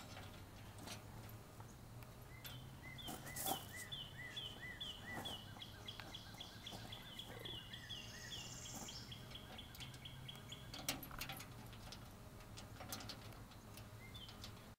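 A bird singing a long run of identical short notes, about two or three a second, that stops about 11 seconds in. Under it, scattered small sharp clicks and knocks from nuts and bolts being handled on a steel dump cart.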